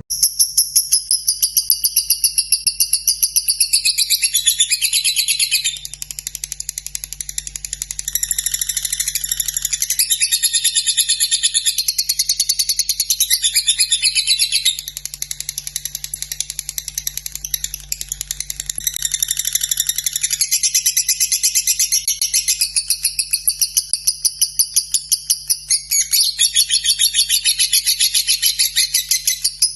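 Lovebird singing a long, unbroken ngekek: a fast, high-pitched chattering trill of rapid chirps that keeps going without a pause.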